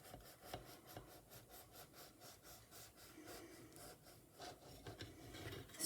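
Faint, rapid back-and-forth strokes of a knife sawing gently through a soft, crumbly fruit tea cake.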